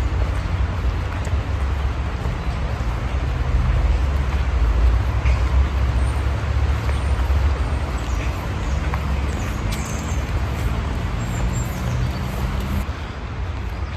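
Low rumble of a motor vehicle running, with a steady engine hum that stops a little before the end, over a constant wash of noise.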